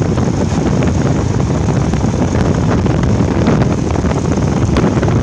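Wind buffeting the microphone: a loud, uneven low rumble, with a few faint clicks.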